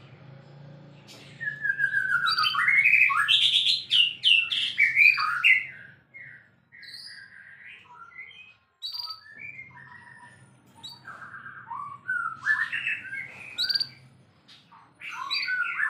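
White-rumped shama (murai batu) in full, vigorous song: loud, rapid runs of varied whistled and harsh phrases, starting about a second and a half in, thinning to scattered softer notes in the middle, and breaking out again near the end. A faint steady low hum runs underneath.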